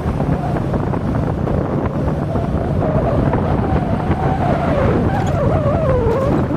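Wind rushing over the microphone on a moving motorcycle, with an engine note that wavers up and down under it, swinging most near the end.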